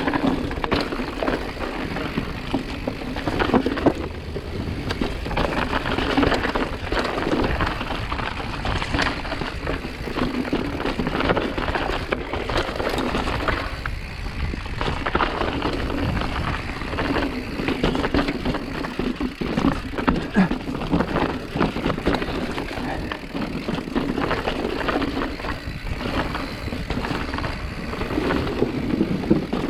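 Mountain bike rolling over a rough trail, with a steady rattle of the bike and many small knocks from the tyres on dirt and stones.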